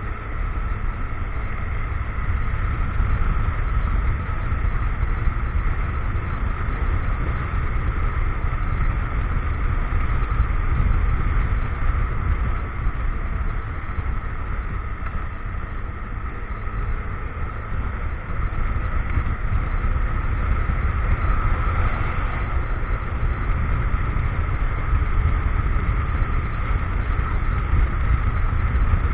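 Motorcycle engine running steadily while riding, over a continuous low rumble.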